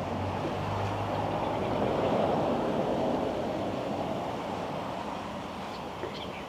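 A motor vehicle passing on the road, its noise swelling to a peak a couple of seconds in and then slowly fading.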